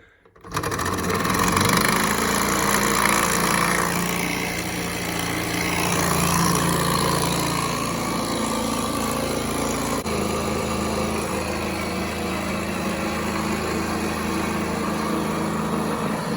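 Model Stirling hot air engine running steadily, its flywheel turning a small electric motor used as a dynamo, a continuous mechanical whirr that starts abruptly about half a second in.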